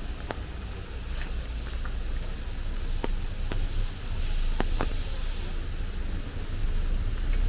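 Rainy city street: scattered drops tapping now and then over a low traffic rumble that grows louder toward the end as a vehicle approaches, with a brief hiss about four seconds in.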